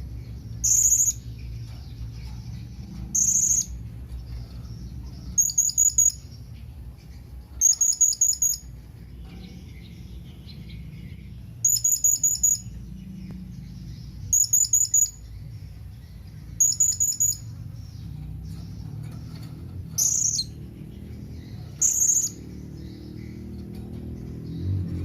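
Blue-crowned hanging parrot (serindit) calling: high, thin notes, some given singly and others in quick strings of four to six, every two seconds or so. A steady low hum sits underneath.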